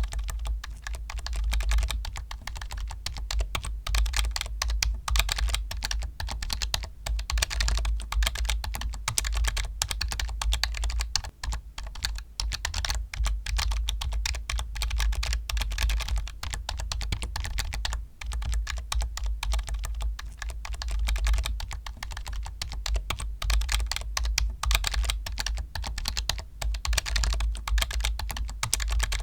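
Fast, continuous typing on a computer keyboard: a dense run of key clicks and clacks with only brief pauses, over a steady low hum.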